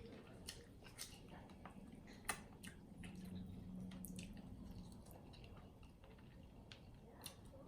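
Faint wet chewing and mouth sounds from eating sauce-coated chicken wings: scattered soft, sticky clicks and smacks. A low hum runs for about two seconds in the middle.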